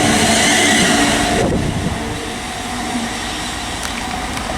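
A train running past, with a loud rushing of wheels and motors and a steady hum underneath; the rushing drops suddenly about a second and a half in, leaving a quieter steady train sound.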